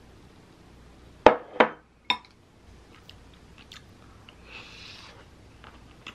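A few sharp knocks about a second in, then close-up chewing of crunchy aged kimchi (묵은지), with small crunches and clicks.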